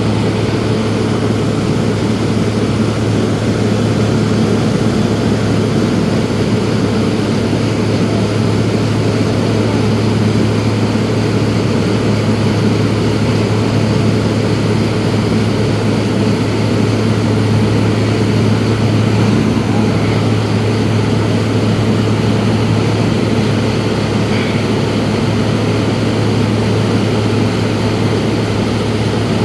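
Propeller engine of a small sightseeing plane in cruise, a steady low drone heard from inside the cabin.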